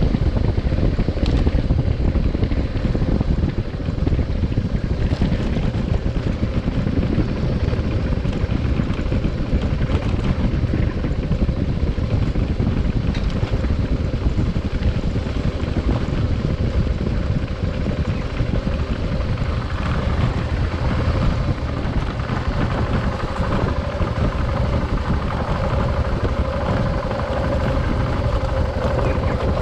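Adventure motorcycle being ridden, its engine running steadily under heavy wind rush on the microphone. A steady engine hum grows stronger about two-thirds of the way through.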